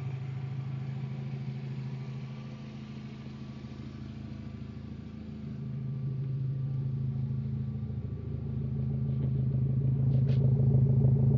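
VW Golf Mk4's engine idling steadily through its custom exhaust, a low even hum that grows louder in the second half.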